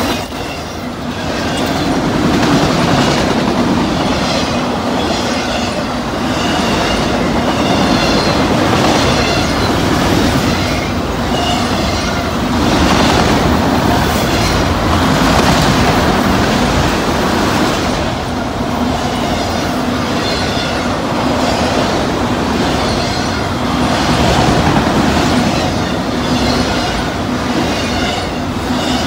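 Empty autorack freight cars rolling past: a steady rumble with a rhythmic clatter of wheels over the rail joints.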